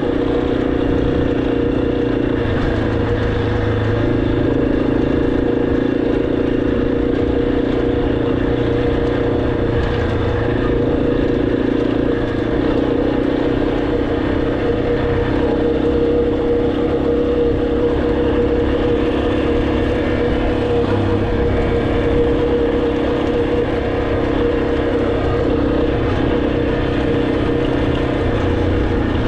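Motorcycle engine running while riding, its note holding steady and stepping up or down every few seconds as the throttle changes.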